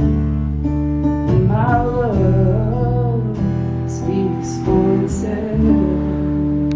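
Live acoustic guitar song with a singer's voice on the closing line, then a final strummed chord left ringing for the last second or so.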